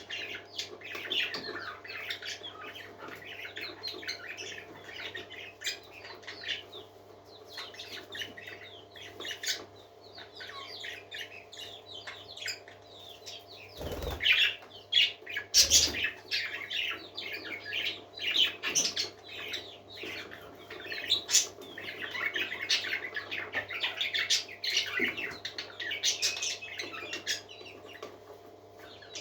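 Several parakeets chattering and chirping nonstop in quick overlapping calls, with two sharp thumps about halfway through, over a faint steady hum.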